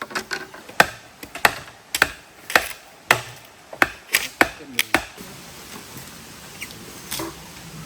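Sharp chopping blows, about two a second, stopping about five seconds in, over a steady hiss of rain.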